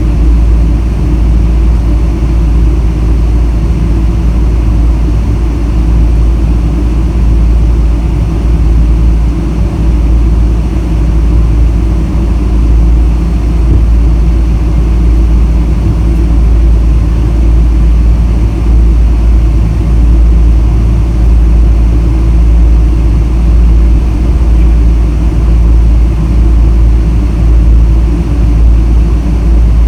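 Boeing 777-300 jet airliner: a loud, steady low rumble of engines and airflow that does not change in pitch.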